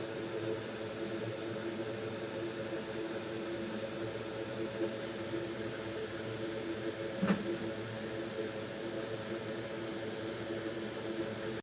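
Steady electric fan whir with a constant humming tone, as from workbench equipment, and a single sharp click about seven seconds in.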